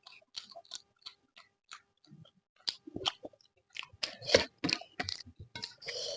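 Close-miked mouth chewing of soft food, with wet smacks and crunches in quick irregular runs, pausing briefly about two seconds in and loudest about four seconds in.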